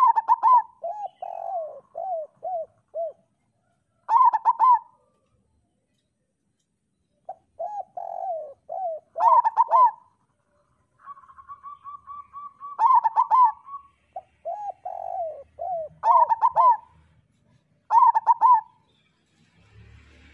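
Zebra dove (perkutut) cooing: about six phrases of quick, rolling coos, each separated by a pause of a second or two.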